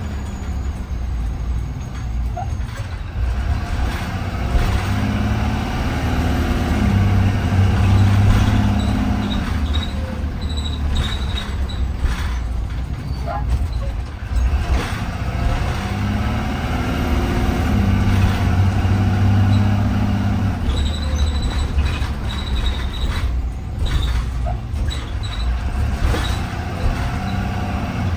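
Blue Bird Vision school bus under way, heard from inside: the engine pulls harder twice, its note rising and then easing off, with knocks and rattles from the body.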